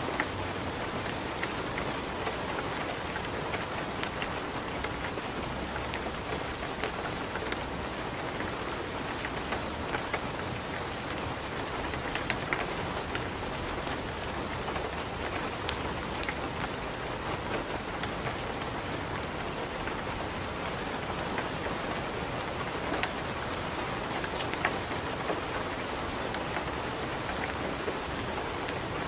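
Wood fire crackling in a fireplace: a steady hiss with irregular sharp pops and snaps.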